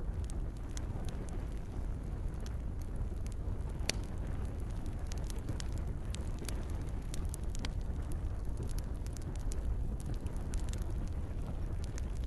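Campfire crackling, with scattered sharp pops over a steady low rumble; one louder pop comes about four seconds in.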